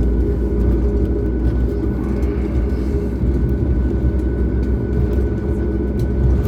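Cabin noise inside a Boeing 737 MAX on the ground before takeoff: a steady low rumble with a faint steady whine above it.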